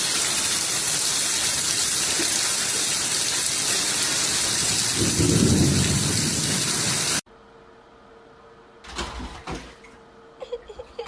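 Loud steady rushing noise, with a deep rumble swelling about five seconds in. It cuts off suddenly about seven seconds in, leaving a faint steady hum and a few sharp knocks.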